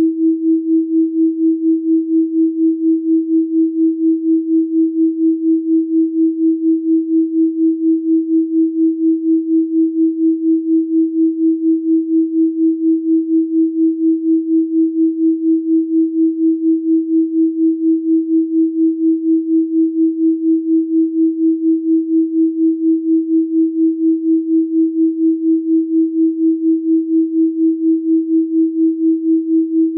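Synthesized 324 Hz pure sine tone, held steady at one pitch with an even pulsing in loudness about three times a second.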